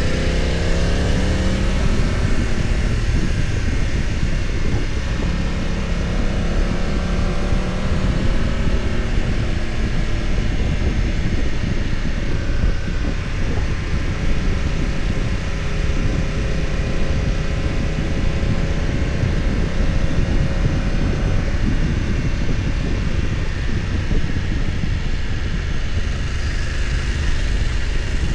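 BMW F900 XR's parallel-twin engine under way. Its pitch rises over the first couple of seconds as it accelerates, then it runs fairly steadily with gentle rises and falls, under constant wind and road noise.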